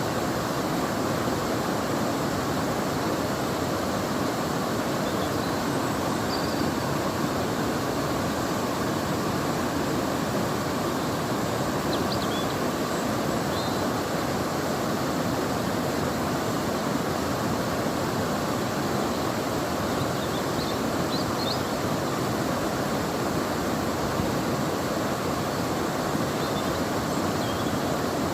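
River water flowing in a steady, even rush. A few faint high chirps come and go over it.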